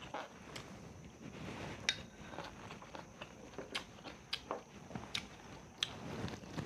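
A person eating close to the microphone: chewing, broken by small sharp clicks about one or two times a second.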